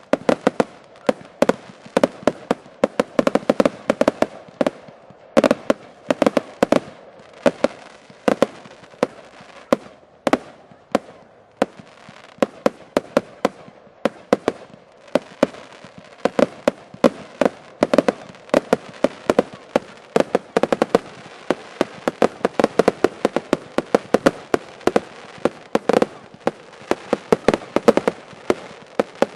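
Fireworks finale: a continuous barrage of sharp bangs, several a second. It thins briefly about a third of the way in, then grows denser through the second half.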